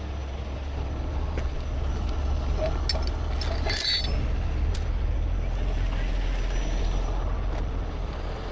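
Heavy truck engine running with a steady low rumble. A few metallic clicks and a brief high hiss come about three to four seconds in.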